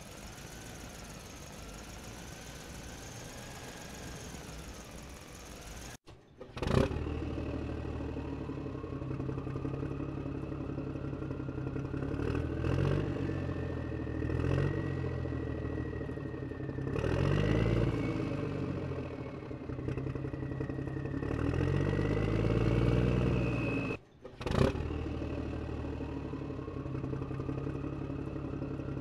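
Motor vehicle engine sound running steadily and revving up twice in the middle, cutting off abruptly and changing to a different engine sound about six seconds in and again near the end.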